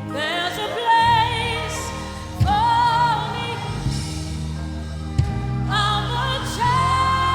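Gospel worship song: a voice sings long held, gliding notes over a band with steady bass, with a sharp beat hit about every three seconds.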